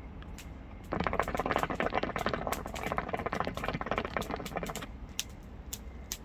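Campfire crackling, with scattered sharp pops; about a second in, a dense run of rapid crackling and rustling starts and lasts about four seconds before easing back to occasional pops.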